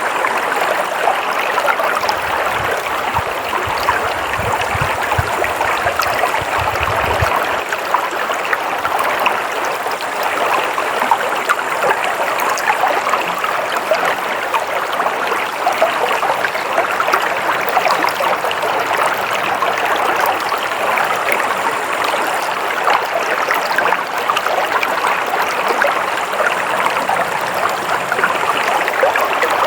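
Stream of water flowing steadily, an even, continuous rush, with a faint low rumble from about two to seven seconds in.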